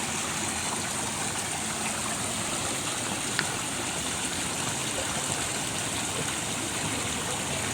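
Steady rush of running water, with a single faint click about three and a half seconds in.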